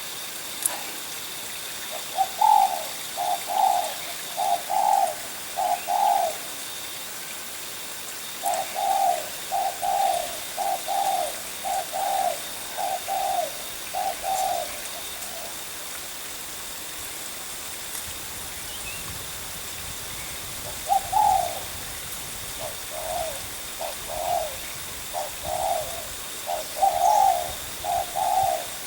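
A dove cooing in three long series of short, evenly repeated coos, with quiet pauses of a few seconds between them.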